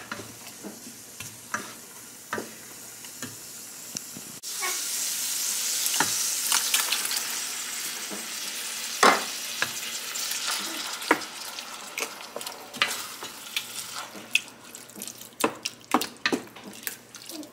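Ground beef and chopped onion sizzling in a stainless steel pot, stirred with a wooden spoon that knocks against the pot. About four seconds in the sizzling suddenly gets louder and hisses for several seconds as canned diced tomatoes go in, followed by more spoon taps as they are stirred.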